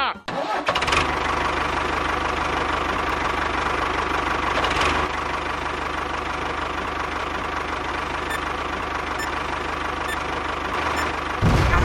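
A small engine of a DIY mini tractor running steadily with a fast, even pulse, with a louder low burst near the end.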